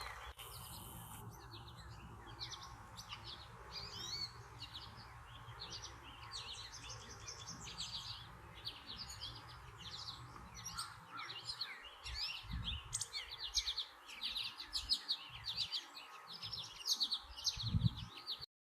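Small birds chirping, a dense run of short high notes that keeps going and grows busier toward the end. A few low thumps come through near the end.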